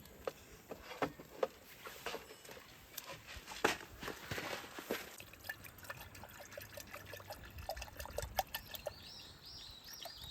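Scattered light clicks and knocks, with a short rustling patch around four to five seconds in. From about eight and a half seconds a bird chirps several times in quick succession.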